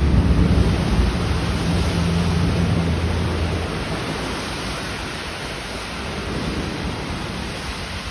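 Heavy downpour of rain hissing steadily, with a low thunder rumble, loudest in the first second, dying away after about three and a half seconds.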